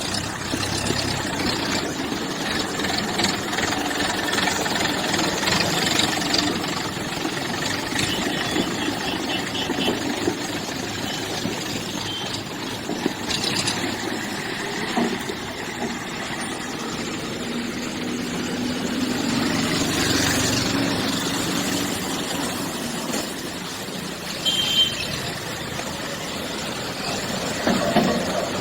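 Motor vehicle engines running steadily amid road traffic noise, with brief bursts of short, high, rapid beeping about eight seconds in and again near the end.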